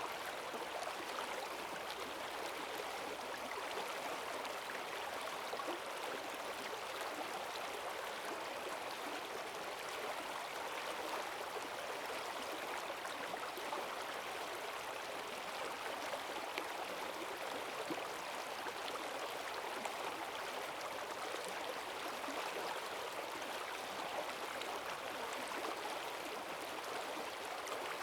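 Rain-swollen forest stream rushing steadily, a constant wash of running water with fine splashing and gurgling.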